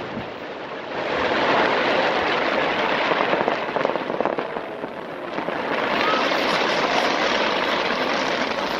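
Fireworks crackling densely, a rapid mass of small pops that swells twice.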